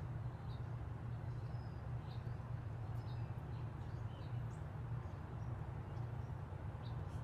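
Scattered faint bird chirps, short and high, over a steady low hum.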